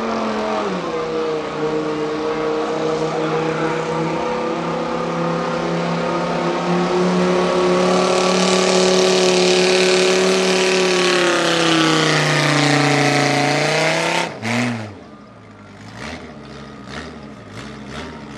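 Pickup truck engine held at high revs under full load while pulling a weighted sled. Its pitch sags and then falls about twelve to fourteen seconds in as the truck bogs down, and the engine is let off sharply about fourteen seconds in. After that it is much quieter, with a few scattered knocks.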